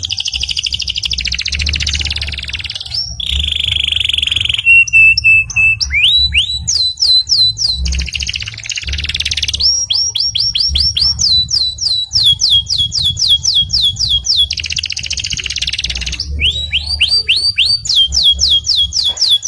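Domestic canary singing a long, loud song. Rapid buzzing trills alternate with a brief held whistle and runs of repeated swooping whistled notes at about five a second.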